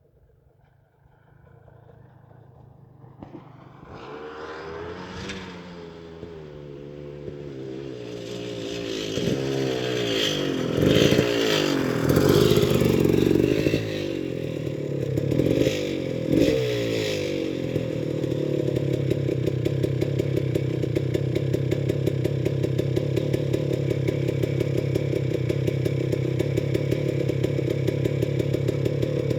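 Off-road motorcycle engine approaching while climbing. It grows from faint to loud over about ten seconds, its revs rising and falling, then runs steadily close by.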